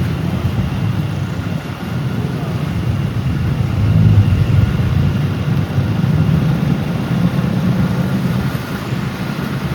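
Road traffic of cars and motorbikes: a steady low rumble of engines that swells about four seconds in.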